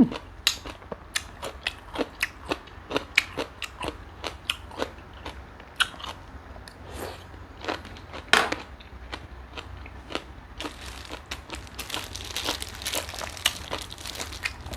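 Close-up eating sounds: a person biting into and chewing prawns, with irregular sharp crunches and wet clicks, growing into a denser crackling run about eleven seconds in.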